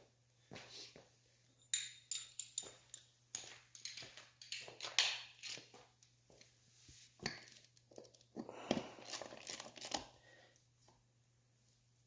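Irregular clicks, clinks and scrapes of hand tools and metal parts being handled during reassembly of a three-wheeler's front wheel and brake, with busier bursts in the middle and later on. A faint steady hum runs underneath.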